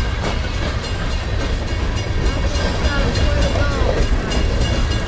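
CSX freight train rolling slowly past: a steady low rumble from the cars, with faint repeated clicks from the wheels on the rails.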